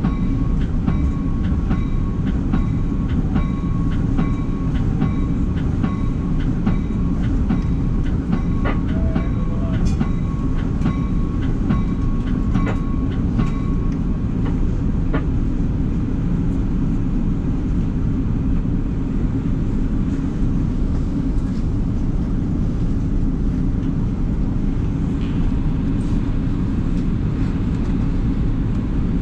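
Inside a moving NJ Transit passenger train car pulling into a station platform: a steady low rumble of the wheels on the track, with scattered clicks and a steady high whine that stops about halfway through.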